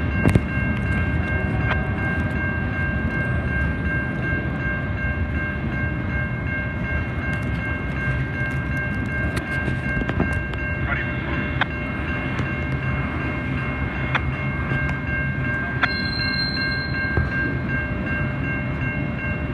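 Freight train cars rolling slowly past: a steady low rumble of wheels on rail with scattered sharp clicks. A steady high-pitched whine of several tones sits over it.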